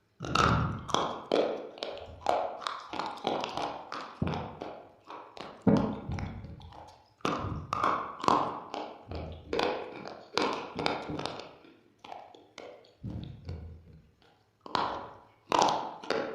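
Mouth crunching of something hard and brittle being bitten and chewed: dense runs of sharp cracking crunches, several a second, with brief lulls about twelve and fourteen seconds in.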